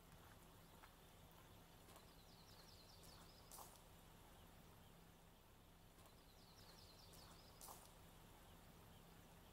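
Near-silent outdoor quiet with a faint small bird singing twice, about four seconds apart: a quick run of high notes ending in a short sharp note. A faint steady low hum runs underneath.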